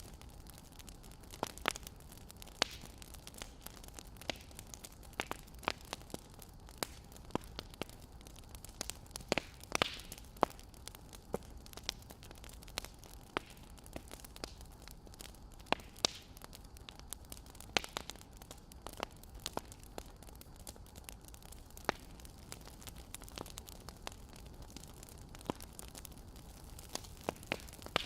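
Burning firewood crackling: irregular sharp pops and snaps, several a second at times, over a steady low hiss.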